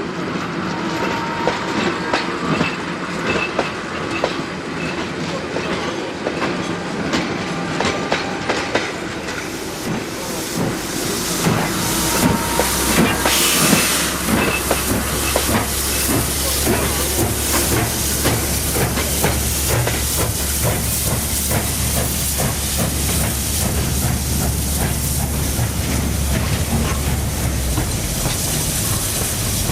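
Steam train running: rapid clattering of wheels and rods over the rails with steam hiss, busier from about a third of the way in, and a low steady hum that stops near the end.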